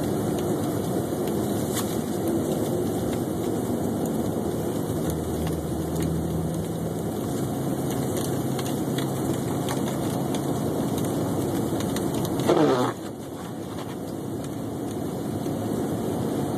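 Steady engine and tyre noise inside a Chevrolet Suburban's cabin as it drives a snow-covered highway on-ramp. About twelve and a half seconds in comes one short, loud sweep falling quickly in pitch.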